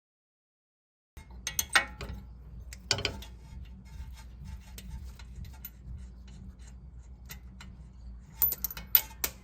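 Ratchet wrench clicking as the upper ball joint nut is backed off with an 18 mm socket, with a few louder metal clinks about two and three seconds in and a quick run of them near the end, over a steady low hum.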